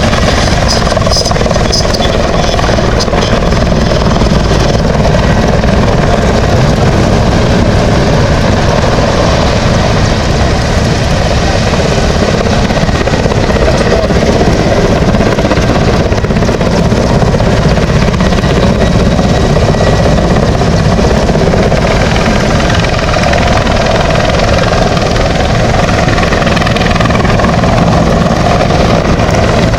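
Mil Mi-171Sh helicopter in flight: loud, steady rotor beat over turbine engine noise, with a high whine near the start.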